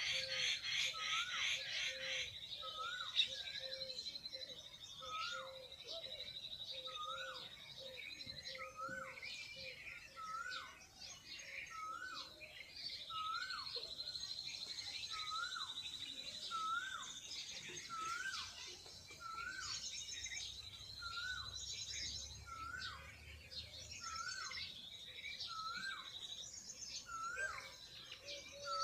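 Birds calling. One bird repeats a short, rising, hooked note about once a second throughout. Over it run a long high trill that stops and restarts, and scattered higher chirps.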